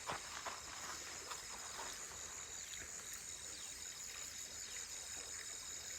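Insects calling steadily: a continuous high ringing tone with a faster pulsing trill above it, and a few faint clicks.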